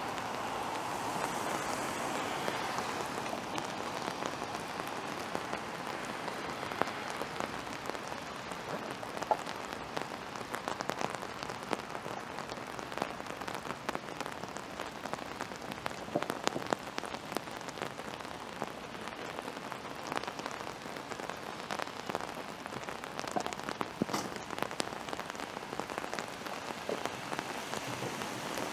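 Steady rain falling, with many sharp individual drop impacts scattered throughout.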